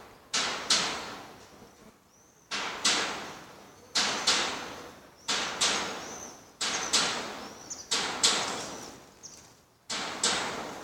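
A loose roof sheet banging over and over in strong wind: sharp bangs, mostly in quick pairs, about every second and a half, each ringing out for about a second.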